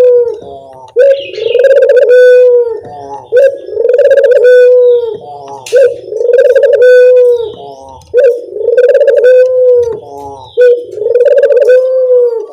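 Puter dove (collared/turtle dove) cooing in a steady repeated song: about five phrases, each a short note followed by one long, low held coo.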